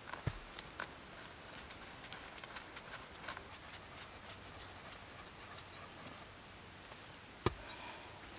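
Quiet woodland background with faint, short, high bird chirps and a few light knocks, the sharpest one near the end.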